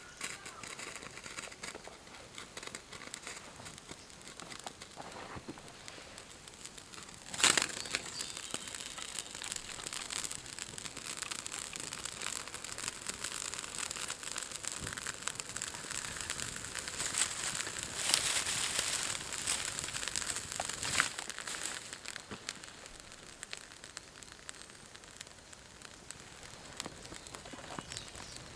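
Coffee beans roasting in a frying pan over an open wood fire: dense, irregular crackling and rustling, busier in the middle, with one sharp knock about seven and a half seconds in.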